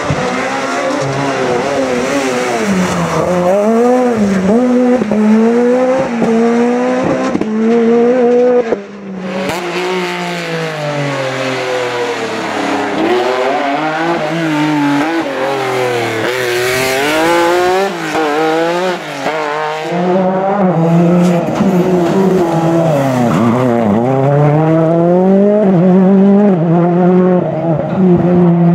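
Rally car engines revved hard, the pitch climbing and dropping again and again as the cars accelerate, lift and change gear through the stage. The sound cuts abruptly about nine seconds in to another car doing the same.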